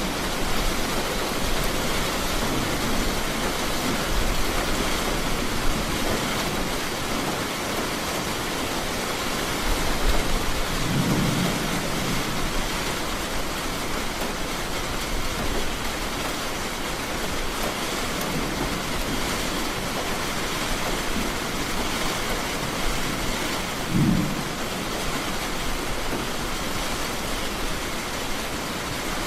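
Heavy rain falling steadily, with low rumbles of thunder swelling up about eleven seconds in and again about twenty-four seconds in.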